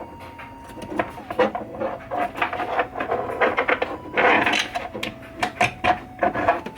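Irregular clicks, taps and rattles of small metal parts and tools being handled during work on a pinball machine's drop-target assembly, busier from about two seconds in, with a short rustling scrape about four seconds in.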